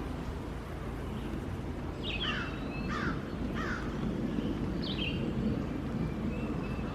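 A bird calling: short, harsh, falling calls, three in quick succession about two seconds in and two more later, over steady low outdoor background noise.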